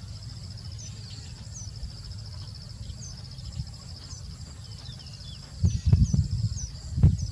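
A steady high, fast-pulsing insect trill, with short high bird chirps repeating over it and a low rumble underneath. Near the end come several loud low thuds and rumbles.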